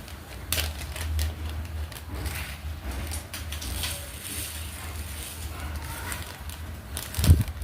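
Scattered soft clicks and taps of diamond painting work: a drill pen picking up resin drills and pressing them onto the adhesive canvas, with a louder knock near the end. A steady low hum runs underneath.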